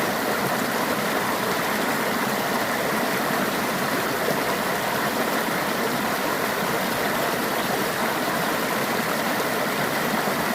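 Mountain stream rushing and splashing over rocks, a steady close rush of water.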